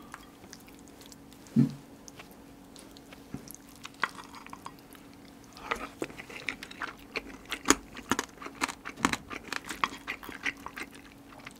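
Close-miked chewing of a mouthful of rice: quick wet smacking clicks, sparse at first and dense from about six seconds in, with one soft knock about a second and a half in.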